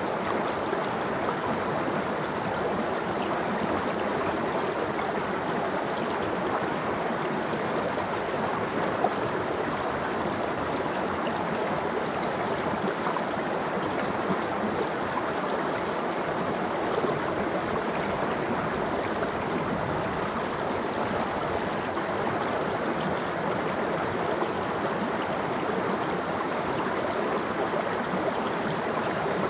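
Stream water flowing steadily over rocks in a continuous babble, with a couple of small splashes standing out.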